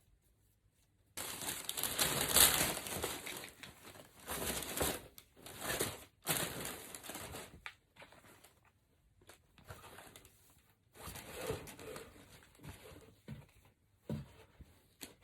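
Packaging being handled and torn open, crinkling in irregular bursts with short pauses. It is loudest a couple of seconds in and quieter and more broken later.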